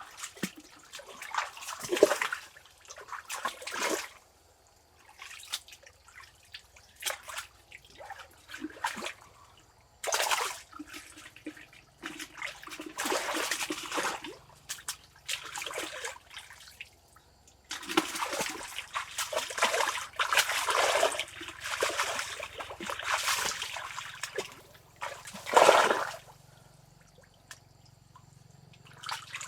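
Water splashing and sloshing in irregular bursts with short pauses between, as if being stirred or scooped by hand. There is a sharp, loud splash about two seconds in and another near the end.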